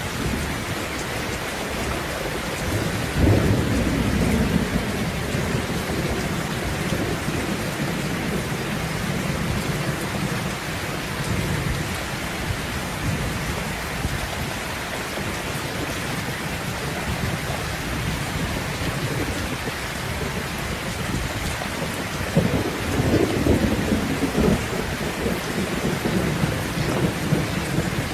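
Steady rain falling through a thunderstorm, with thunder rumbling twice: once about three seconds in and a longer roll near the end.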